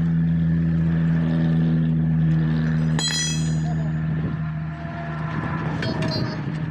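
Machine motor running steadily with a low hum that eases off about four seconds in. A sharp metallic clink with a brief high ring comes about three seconds in.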